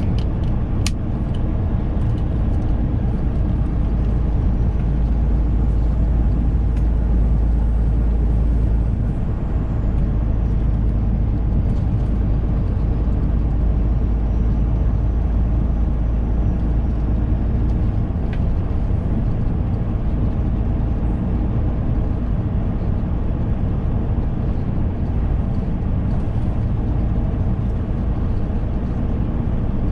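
Semi truck driving, heard from inside the cab: the steady deep drone of the diesel engine and road noise. The lowest part of the rumble eases slightly about nine seconds in.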